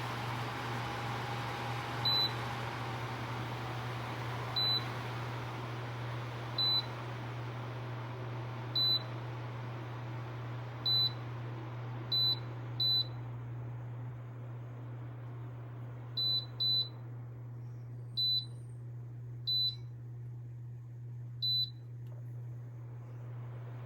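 Dreo tower fan's control panel beeping about a dozen times, in short single high beeps at uneven intervals, as its settings are changed. Under them is a steady low hum and the fan's airflow hiss, which grows quieter about halfway through.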